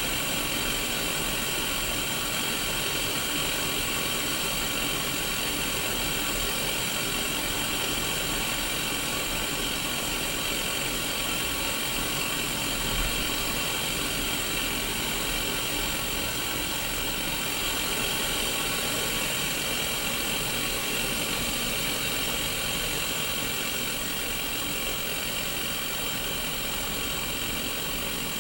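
Sony Mega Watchman black-and-white mini CRT TV playing white-noise static: a steady, even hiss that does not change.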